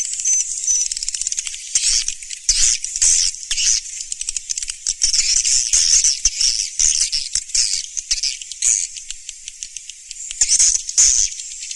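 Edible-nest swiftlets twittering in a dense, continuous chatter of rapid high-pitched chirps and clicks. It is a swiftlet lure-call recording, the kind played to draw swiftlets into a nesting house.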